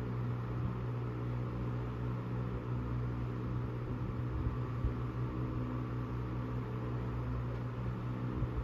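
Vintage Emerson Electric 16-inch table fan running steadily: a low electric motor hum with the rush of air from the blades.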